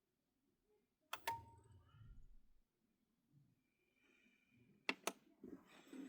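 Mostly near silence, broken by two sharp double clicks, one about a second in with a short ringing tone and a low rumble after it, the other near the end followed by rustling handling noise.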